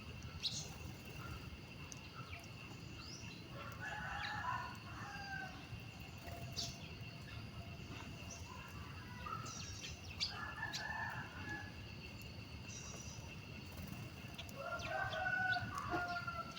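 Roosters crowing several times, each crow a second or two long, with short high bird chirps between them and a steady high-pitched tone underneath.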